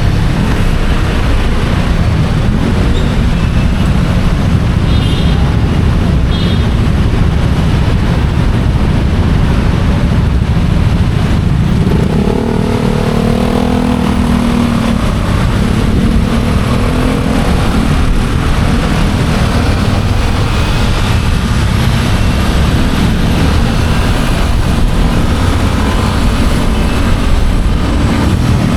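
Motorcycle engine running with steady road noise while riding. About twelve seconds in, a pitched engine note stands out for a few seconds.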